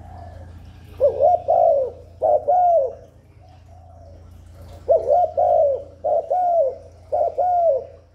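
Spotted dove cooing: two runs of short, arched coos, the first about a second in and the second about five seconds in, each lasting a couple of seconds.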